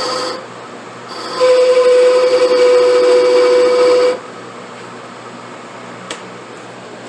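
Lathe cutting ebonite for a pipe stem: a loud, high whine that breaks off just after the start, comes back about a second in and cuts off suddenly about four seconds in. A steady machine hum runs on underneath, with a single faint click near the end.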